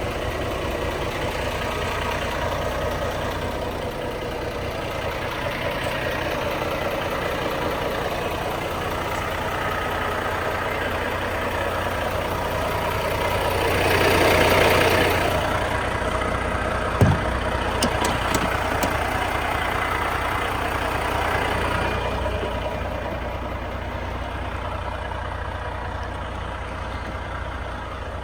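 Renault T440 truck's six-cylinder diesel engine idling steadily. About halfway through the sound swells louder for a second or two, and a sharp click follows shortly after.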